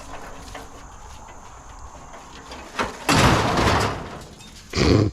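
Scrap metal being loaded into a pickup truck bed: a knock, then about a second of loud scraping clatter as a piece slides in, and a second shorter scrape near the end.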